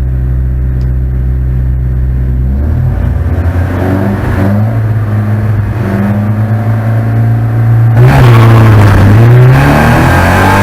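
Porsche 944 Spec race car's four-cylinder engine running at low, steady revs; about three seconds in the note steps up. About eight seconds in it gets louder, with the engine pitch dropping and climbing again as the car accelerates.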